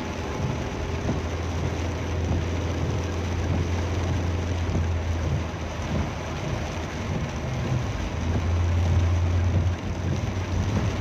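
Heavy rain and a vehicle's running noise on the move, an even rushing hiss over a steady low rumble that swells a little near the end.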